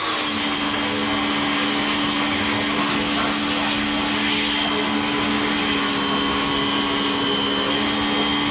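Black & Decker electric pressure washer's motor and pump running with a steady loud hum, building up water pressure in the unit before spraying.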